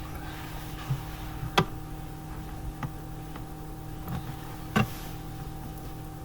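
Five sharp clicks and knocks at irregular intervals, the loudest about a second and a half in and again near five seconds, over a steady low hum. These are typical of tools and parts being handled during work on a car engine.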